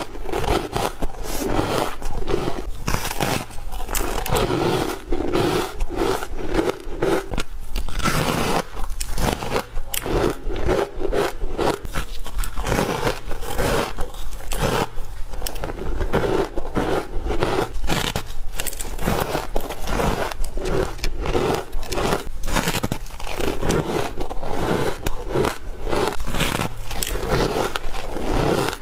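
Ice being bitten and chewed close to the microphone: a rapid, continuous run of crisp crunches, several per second.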